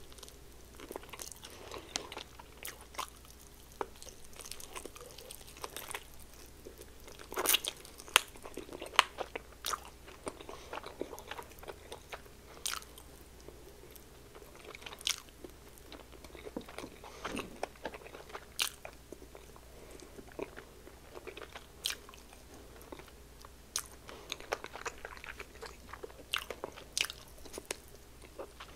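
Crunching and chewing of crispy fried chicken wings, with sharp, irregular crunches throughout, loudest about seven to nine seconds in.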